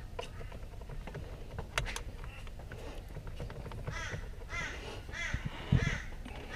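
A bird cawing: five harsh calls a little over half a second apart, starting about four seconds in. Before that, around two seconds in, there are a couple of sharp clicks.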